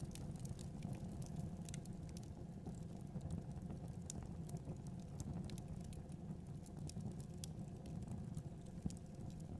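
Fireplace fire crackling: irregular sharp snaps of burning wood over a low, steady rumble of flame.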